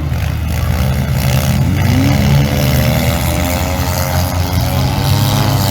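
Demolition derby cars' engines running and revving, their pitch rising and falling over a steady rumble.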